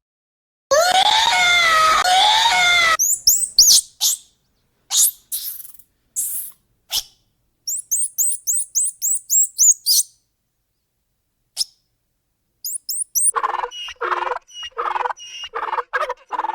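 A string of separate animal calls with silent gaps between them. First comes a loud, drawn-out wavering call. Then come a bird's short high chirps and a fast run of repeated high chirps, and near the end a series of short, lower, pulsed calls.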